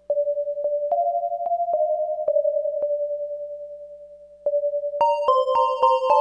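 Electronic music played on a Korg Electribe 2 groovebox: a synth line holds a mid-pitched tone that steps between a few nearby notes, each note starting with a sharp click about twice a second, and slowly fades. About four and a half seconds in it jumps louder, and a brighter, higher synth part joins half a second later.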